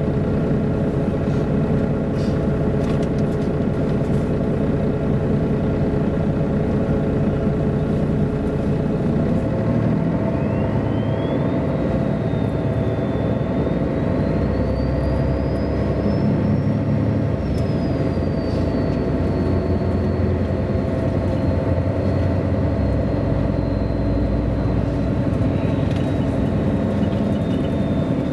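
MAN A23 articulated city bus under way: its engine and drivetrain run steadily, with a high whine that rises about a third of the way in, peaks past the middle, then eases a little and holds.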